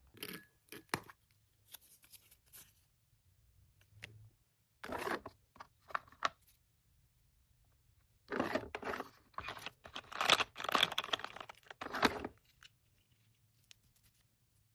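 Paper or packing material being handled, crinkled and torn in several short bursts, the longest and loudest run coming past the middle.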